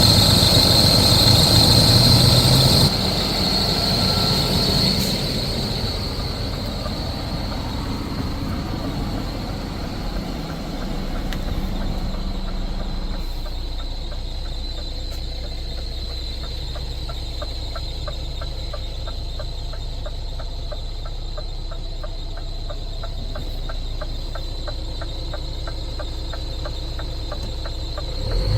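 Scania R500 truck's diesel engine running, louder with a high whine for about the first three seconds, then dropping to a steady idle. From about halfway a faint, regular ticking runs over the idle.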